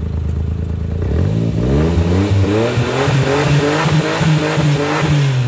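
Suzuki Jimny's engine revved in neutral. It climbs from idle about a second in, is held high with the pitch wavering up and down, and starts to fall back near the end.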